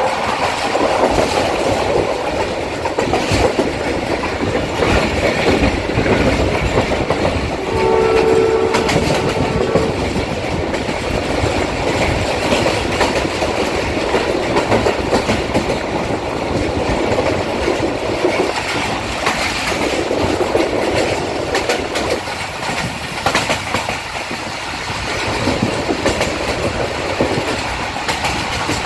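Passenger train running at speed, heard through an open coach window: steady rumble and clatter of wheels over rail joints. About eight seconds in, the ZCU20 diesel locomotive's horn sounds once for about two seconds.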